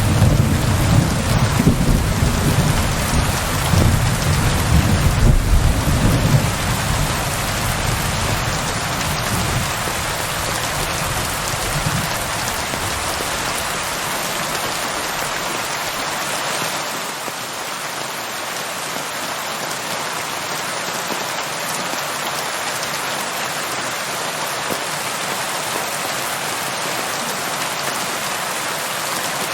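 Steady rain falling, an even hiss, with a low rumble of thunder under it that dies away over the first dozen seconds, leaving only the rain.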